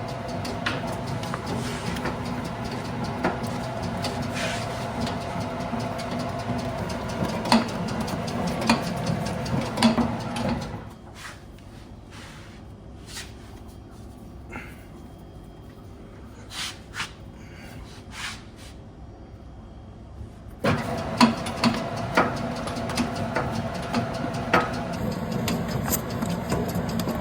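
Bakery dough mixer's electric motor running with a steady hum. It stops about ten seconds in, leaving scattered clicks and knocks, and starts up again about twenty seconds in.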